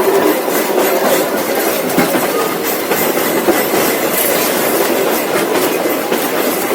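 Mary Valley Rattler heritage train carriage running along the track: a steady rumble and rattle, with the wheels clicking over the rail joints.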